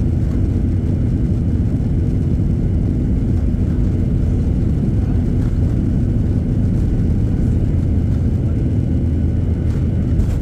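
Boeing 737-800 with CFM56-7B engines in flight: a steady, loud low rumble of engine and airflow noise that holds even throughout.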